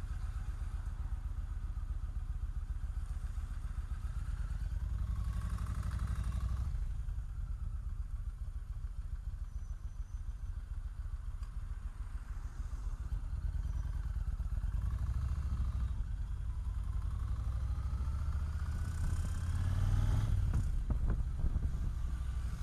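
Motorcycle engine running on the move, a steady low rumble whose pitch rises as it accelerates, most clearly in the last few seconds, with a few sharp clicks near the end.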